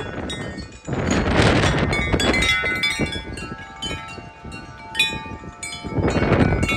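Wind chimes clanging and ringing continuously in strong gusting wind, many overlapping tones. Gusts of wind buffet the microphone about a second in and again near the end.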